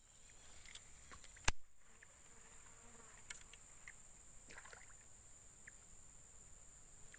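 Insects droning in one steady, high continuous note, with a single sharp click about a second and a half in.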